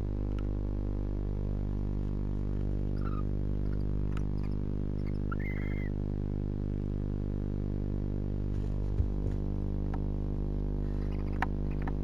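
Steady electrical hum from the nest-box camera's microphone, with faint scratching and clicking of barn owls moving on the box floor, a couple of brief faint chirps a few seconds in, and two sharper knocks in the second half.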